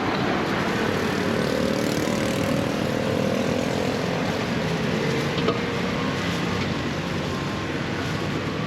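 Busy street noise with a small engine running steadily, its tone holding for several seconds before fading back into the general din.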